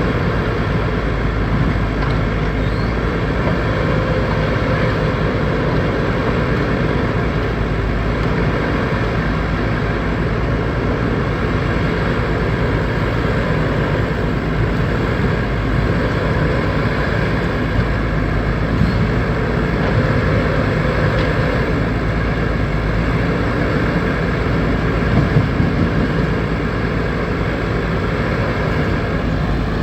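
Backhoe loader's diesel engine running steadily under work, with a few brief knocks about 25 seconds in.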